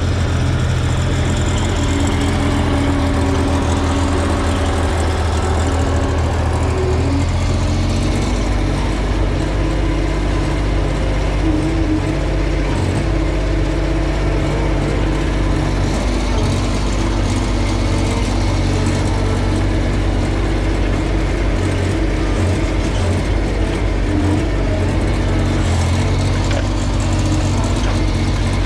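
Heavy equipment's diesel engine running steadily at idle, its note shifting slightly about seven or eight seconds in.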